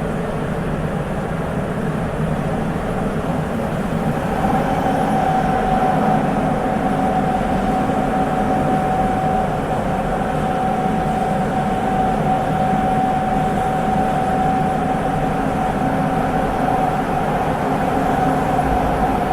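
Sapporo Municipal Subway 8000-series rubber-tyred train running at a steady speed, heard from inside the car, with its Hitachi IGBT VVVF drive. A steady whine comes in about four seconds in and holds over the running noise.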